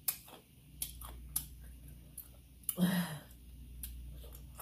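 Close-up mouth sounds of a person chewing food: scattered wet smacking clicks, with a short voiced sound, a hum or grunt, about three seconds in.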